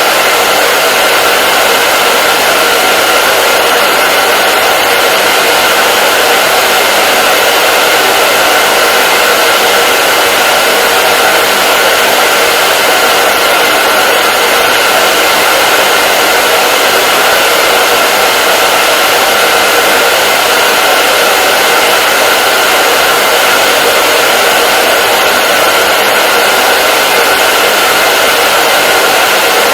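Hair dryer running continuously at a steady setting: an even rushing hiss of blown air with a faint steady whine running through it.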